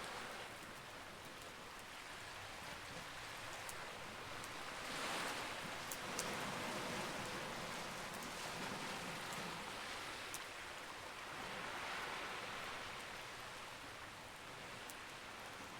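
Campfire crackling with a few sharp, isolated pops, over a steady rushing wash of surf that swells and fades twice.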